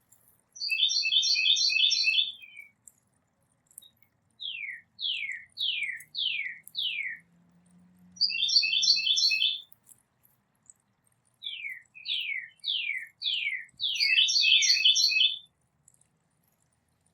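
Songbird singing: short bursts of rapid chatter alternate with runs of four or five clear notes, each sliding downward. There are three chatter bursts and two runs of notes.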